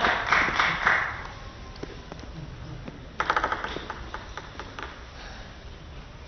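Crowd clapping in an even beat, about three claps a second, that dies away about a second in. A short flurry of claps follows about three seconds in, with scattered light ticks of a table tennis ball on the table.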